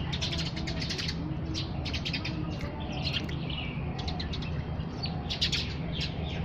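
A flock of birds chirping busily at a feeding spot, with many short, overlapping chirps and a low steady hum underneath.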